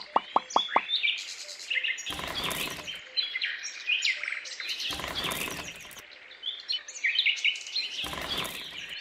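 Small birds chirping and calling, several different calls overlapping, opening with a fast run of ticks. Three times a rushing burst of noise, about a second long, cuts across the birdsong.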